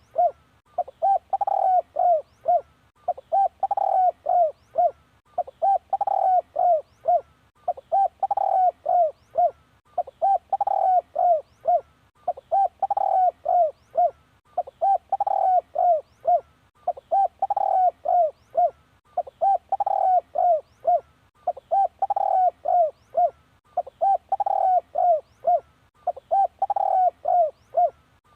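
Spotted dove cooing: a short phrase of four or five coos repeated evenly about every two and a quarter seconds, played as a decoy call to lure wild spotted doves.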